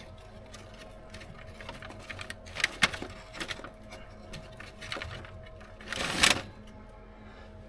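Scattered metallic clicks and knocks from hands-on work with a grease gun on grease fittings, with a short noisy burst about six seconds in, over a faint steady hum.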